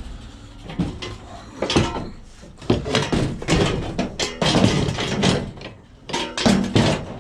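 A run of irregular bangs, knocks and clatter as scrap metal, a discarded chair among it, is picked up and thrown in for collection.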